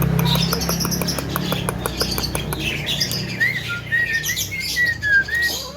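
A young Javan myna (jalak kebo) singing a varied song: a rapid clicking rattle at first, then a run of short whistled notes with chirps mixed in.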